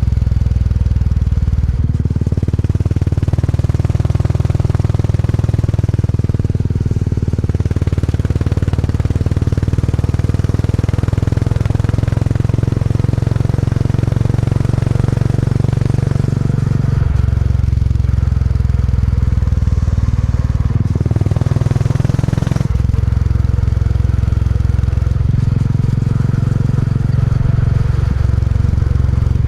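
Classic motorcycle engine running on the move with a deep, thumping exhaust note. Its engine speed steps up and down several times along the way.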